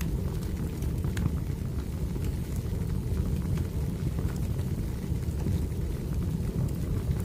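Wood fire burning: a steady low rumble of the flames with scattered sharp crackles and pops from the burning logs.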